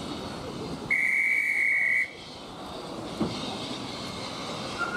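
Railway coaches rolling slowly past with a low rumble. About a second in, a single loud, steady whistle blast lasts about a second.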